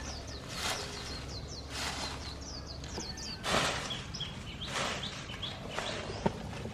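Small birds chirping in quick runs of short, falling notes, over a handful of loud swishing noises spaced about a second apart.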